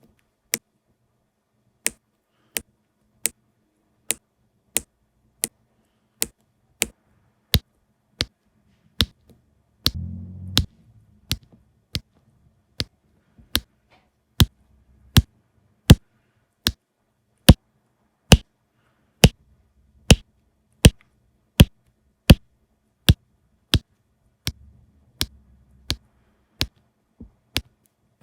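Diamond painting drill pen tapping diamonds onto the canvas: sharp, evenly paced clicks, about three every two seconds, with a short low rumble of handling about ten seconds in and again near the end.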